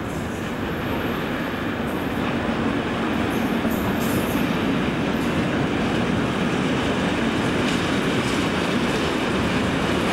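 Class 60 diesel locomotive passing with its train: steady engine and wheel noise on the rails, growing a little louder about two seconds in.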